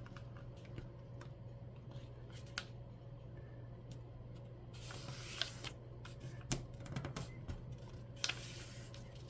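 A sheet of paper being folded and its crease pressed down by hand: faint rustling and rubbing with scattered crisp clicks of the paper, over a steady low hum.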